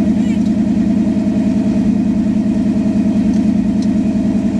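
Car engine idling steadily, with an even, rapid low pulse.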